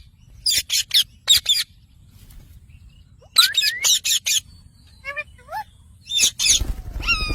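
Pet parrot giving short, sharp chirping calls in quick bursts of three or four, with a low rumble near the end.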